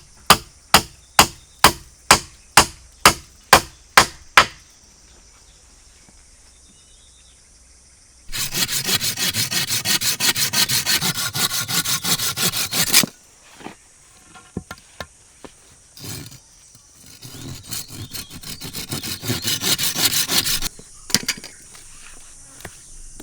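Wood being chopped with quick, even blows, about two and a half a second, for the first four seconds or so. After a pause comes a saw cutting through wood in rapid strokes, a burst of about five seconds, then a second run that grows louder over about four seconds.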